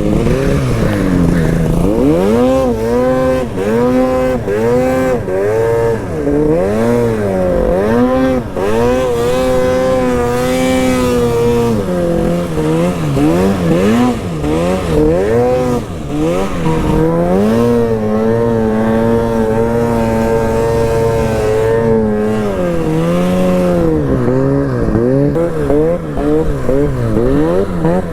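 Arctic Cat snowmobile with an aftermarket GGB exhaust, its engine revving up and falling back over and over as the throttle is worked while riding.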